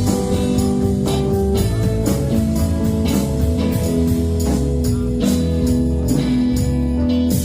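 Live band music: electric guitar over bass and a drum kit keeping a steady beat.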